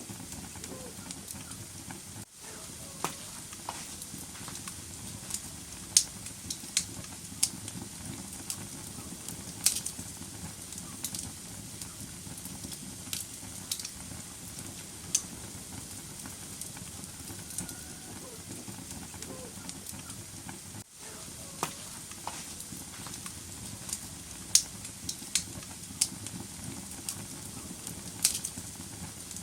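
Wood fire burning in a fireplace: a steady low hiss under irregular crackles and pops, with a few sharp, loud snaps.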